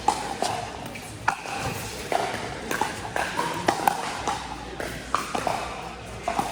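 Pickleball paddles striking plastic balls: a dozen or so sharp pops at irregular intervals, each with a short ring.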